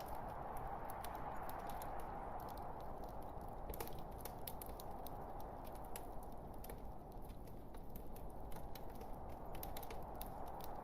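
Burning wood logs in a fireplace crackling: many small, irregular sharp pops and snaps, several a second, over a steady soft hiss of the fire.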